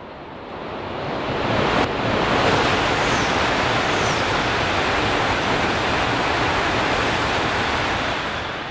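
Shinkansen train passing through a station at high speed without stopping: a rush of air and rolling noise that builds quickly, stays loud for about six seconds and fades near the end. Two faint high falling whistles are heard in the middle of the pass.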